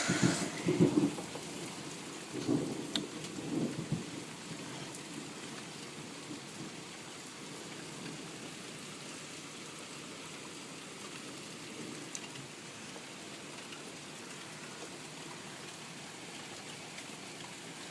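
Steady rain falling in a thunderstorm, with low rumbles of thunder swelling in the first few seconds.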